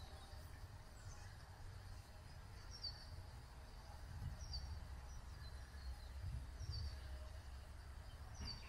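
Quiet outdoor background with a bird repeatedly giving short, high chirps that fall in pitch, often in pairs, every second or two, over a faint low rumble.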